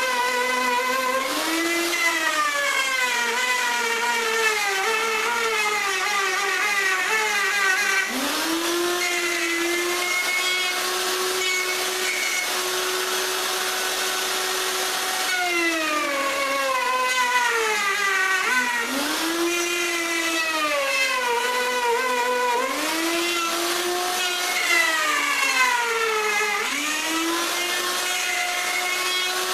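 Electric router running at high speed, its whine sagging in pitch and climbing back again several times as the bit is worked through the wood, with stretches of steady free-running whine between the cuts.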